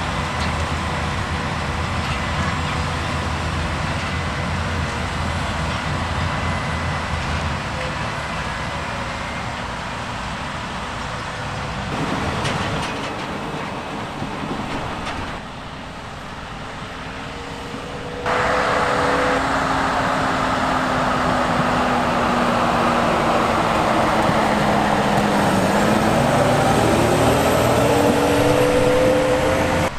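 Heavy beet-harvest machinery running, its diesel engines droning steadily through several abrupt shot changes. In the louder last part a whine sinks slowly, then climbs again near the end.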